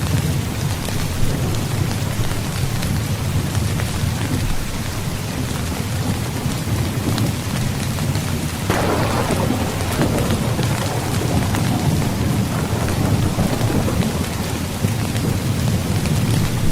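Heavy rain falling steadily with a low rumble of thunder underneath. A little past halfway a sharper thunderclap breaks in and rolls away over several seconds.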